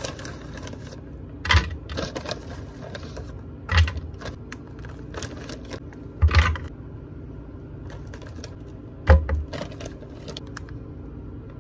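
Kitchen handling clatter while smoothie ingredients go into a blender: four sharp knocks with a dull thud, roughly two to three seconds apart, with lighter clicks and rustles between them, over a steady low hum.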